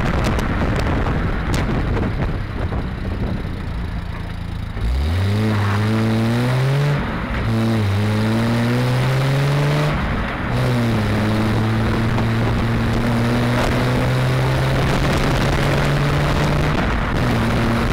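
1973 Triumph TR6's straight-six engine pulling through the gears while driving: after a few seconds of plain road noise, the engine note climbs under acceleration about five seconds in, drops at a gear change around seven seconds, climbs again, drops at another shift around ten seconds, then settles into a steady, slowly rising note while cruising.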